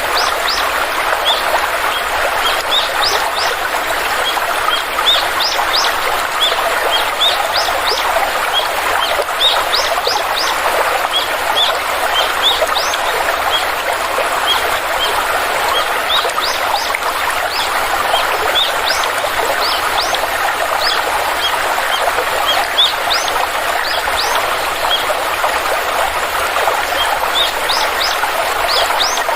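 Steady rush of a flowing stream, with short, high bird chirps repeating throughout.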